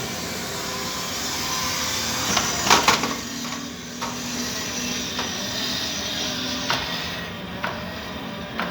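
Battery-powered bump-and-go toy construction truck running, its small electric motor and plastic gears whirring steadily. A cluster of sharp plastic knocks comes about three seconds in, followed by lighter clicks every second or so.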